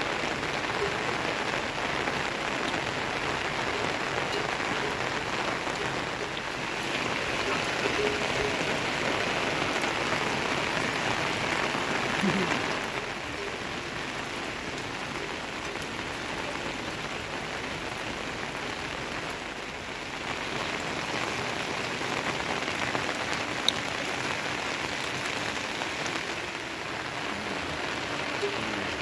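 Steady rain falling, a little heavier for a few seconds in the middle, with one sharp tick late on.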